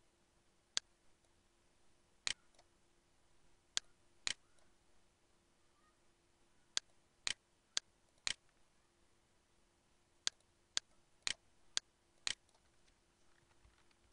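Computer mouse clicking: about a dozen sharp single clicks, several in quick runs about half a second apart, over a faint steady hum.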